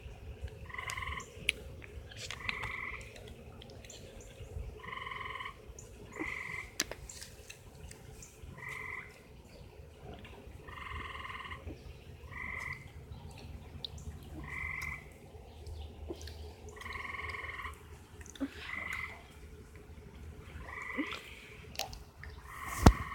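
An animal up in the trees giving short trilled calls over and over, one every one to two seconds, each with a lower and a higher pitch band sounding together. A single sharp slap near the end is the loudest sound.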